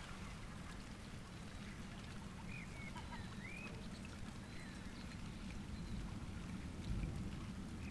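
Faint birds chirping and calling in short, scattered notes over light rain ticking and dripping, with a steady low rumble underneath.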